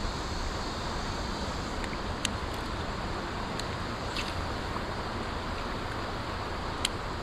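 Steady wind rumble on the microphone, with a few sharp clicks scattered through it, the loudest near the end.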